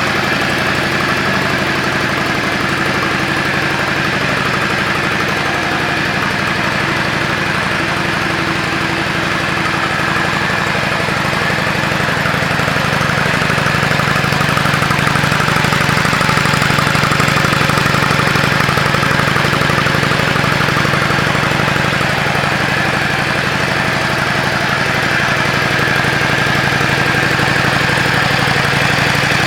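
Yamaha Drag Star 400's air-cooled V-twin idling steadily through a custom aftermarket muffler, getting a little louder about halfway through.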